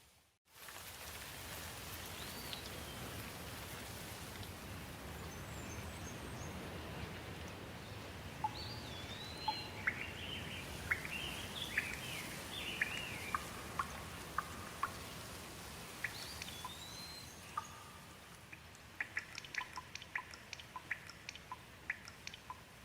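Steady rain, with birds calling through it in short chirps and rising-and-falling whistles, busiest in the middle; a run of sharp ticks near the end. The sound cuts out briefly at the very start.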